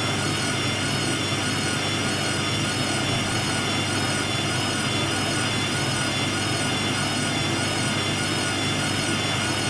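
Hoover WDYNS654D washer dryer running in a spin, a steady hum with a high motor whine that wavers slightly in pitch.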